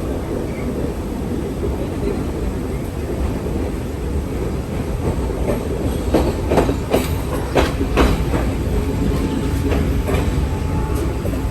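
Train running on the rails with a steady low rumble. Through the second half come a run of sharp clacks as the wheels pass over rail joints.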